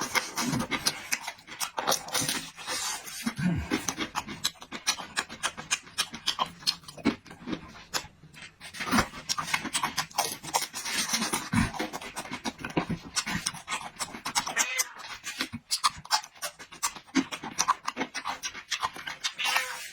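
Close-miked mouth sounds of a person eating pan-fried dumplings: chewing with a dense, irregular stream of wet clicks and smacks.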